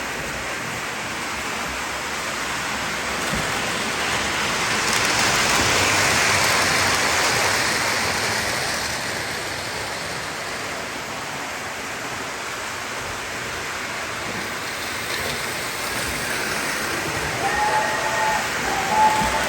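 O-gauge electric model train running on the layout's track, a steady rolling rumble and hiss that grows louder, peaks about six seconds in as it passes close, then fades back. Short pitched tones sound near the end.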